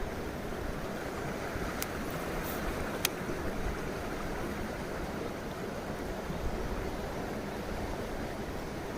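Mountain stream rushing over rocks: a steady wash of flowing water, with two short sharp clicks about two and three seconds in.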